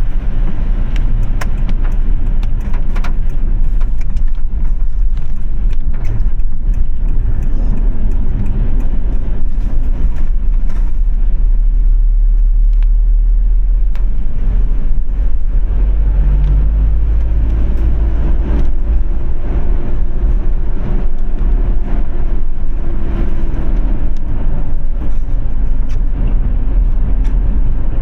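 A car driving on wet city roads in the rain: a steady, heavy low road rumble with scattered sharp ticks of raindrops, and briefly a faint engine hum about two-thirds of the way through.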